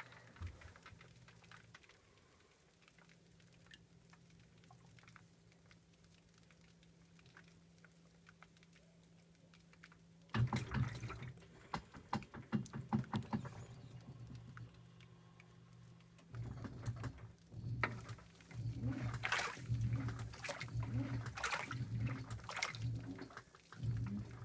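2012 LG top-load washing machine on its delicates cycle: faint water sounds, then about ten seconds in the impeller motor starts with a low hum and water sloshing. From about two-thirds of the way through, the impeller agitates the load in regular pulses, each stroke churning the water, roughly one every three-quarters of a second.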